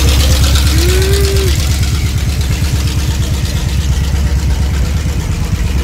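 Large car engine running at low speed: a loud, deep rumble with even firing pulses, easing off slightly.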